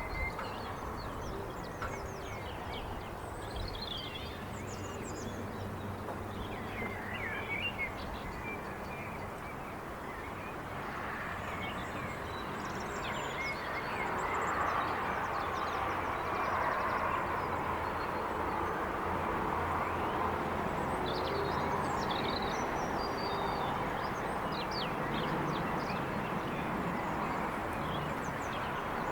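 Outdoor evening ambience: scattered bird calls and chirps over a steady bed of distant traffic noise, which swells louder about halfway through.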